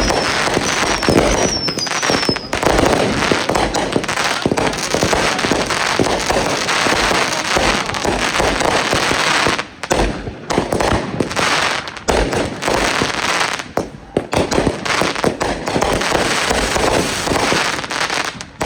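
Consumer fireworks going off in a dense, continuous barrage of crackles and bangs, with a few short falling whistles in the first couple of seconds and brief lulls about ten and fourteen seconds in.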